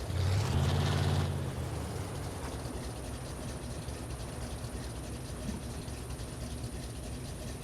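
Chevy 4x4 pickup's engine revving up briefly about a second in, then dropping back to a low, steady running.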